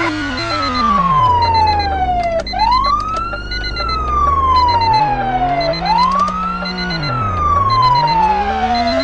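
Police car siren wailing: a tone that sweeps up quickly, then slides slowly down, over and over, about once every two and a half seconds.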